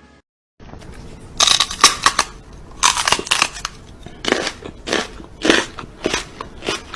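Repeated crunching: about a dozen separate crackly bursts, coming irregularly every half second to a second.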